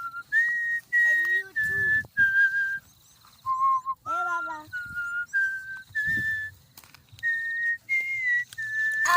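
Whistling: a string of clear held notes, each under half a second, gliding slightly between pitches like a simple tune. A couple of short voice-like sounds come between the notes.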